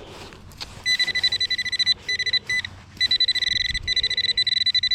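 A metal detector's high-pitched electronic beep, pulsing rapidly in several runs with short breaks, sounding off on a buried target under the coil.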